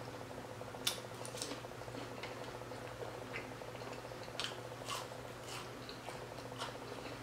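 Close-up mouth sounds of someone chewing chili cheese waffle fries: scattered soft wet smacks and clicks over a faint steady hum.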